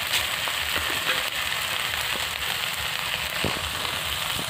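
Diced potatoes and spice paste frying in oil in a metal kadai, sizzling steadily with scattered small pops and crackles.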